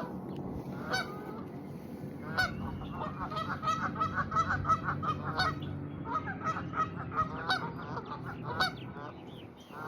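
A flock of geese honking, many short calls overlapping, busiest in the middle of the stretch.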